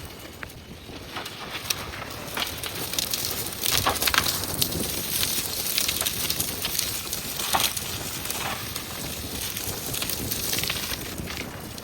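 JCB backhoe loader at work, with irregular crackling and snapping of brush and branches being crushed, busiest from about four seconds in.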